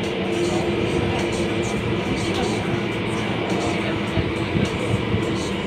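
Metro train running, heard from inside the carriage: a steady rumble and hiss with a held motor hum, and a few louder knocks a little past the middle.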